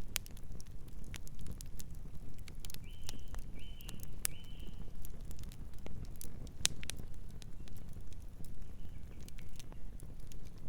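Campfire burning: wood crackling and popping in sharp irregular snaps over a low steady rumble. Three short high chirps come about three seconds in.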